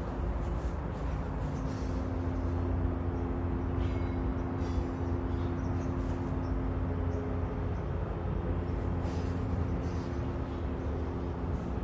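A steady low mechanical hum with a constant drone and two steady tones, with a few faint short clicks over it.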